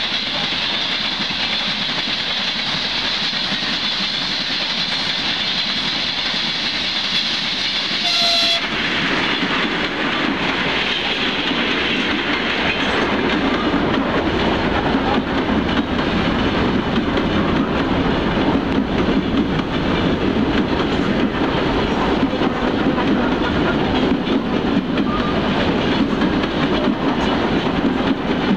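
Freight train wagons rolling past with steady wheel noise and clickety-clack. About eight seconds in a short train horn blast sounds, then an ER2T electric multiple unit runs past close by, making the running noise louder and deeper.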